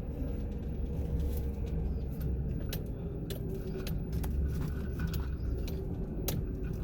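Car driving, heard from inside the cabin: a steady low engine and road rumble with a faint even hum, and scattered light clicks and rattles.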